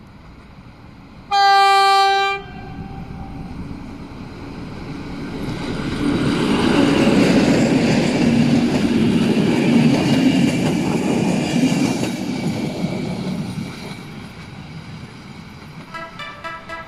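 A 060-DA diesel-electric locomotive gives one horn blast about a second long. Then the locomotive and its train pass, growing louder to a peak midway and fading away. Music begins near the end.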